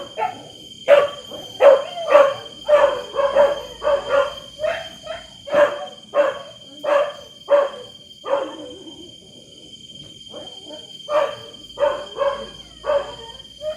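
Dog barking over and over, about two barks a second. The barks break off about two-thirds of the way through and start again shortly before the end. A steady high-pitched whine runs underneath.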